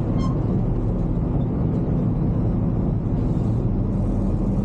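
Steady drone of a semi truck's engine and road noise while driving.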